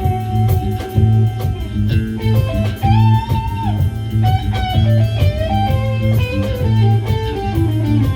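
A band playing in rehearsal: an electric guitar carries a melody over bass notes, with a steady beat of sharp strikes.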